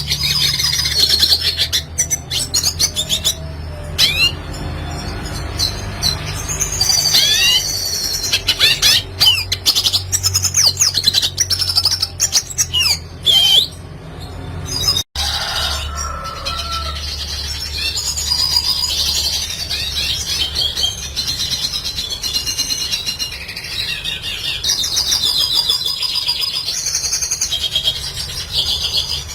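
Red siskin singing: a fast, twittering song of high chirps, trills and quick up-and-down sweeping notes, broken by a brief gap about halfway through.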